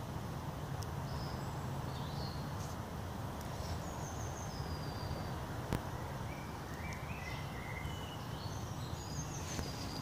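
Small birds singing and chirping in short high phrases, over a steady low rumble, with a single sharp click a little past halfway.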